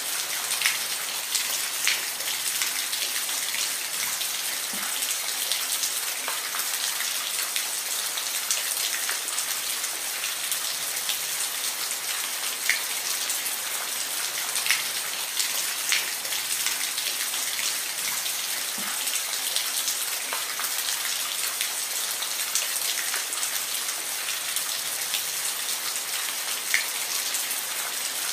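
Steady rain falling, a dense hiss with individual drops ticking sharply every second or two.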